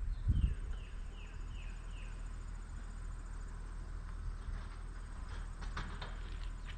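A run of about five short falling chirps, spaced under half a second apart, over a steady low outdoor hum. A few sharp clicks follow near the end.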